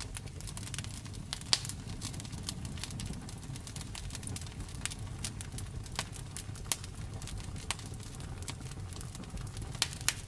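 Wood fire crackling: a low steady rumble of flames under irregular sharp snaps and pops, a few of them louder, about a second and a half in, near the middle and twice near the end.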